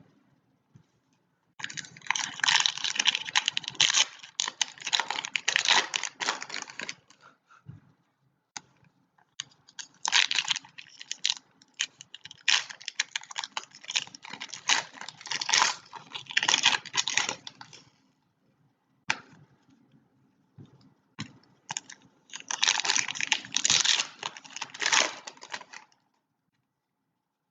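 Foil trading-card pack wrappers being torn open and crinkled by hand. The crackling comes in three long bursts, with scattered small clicks in the pauses between them.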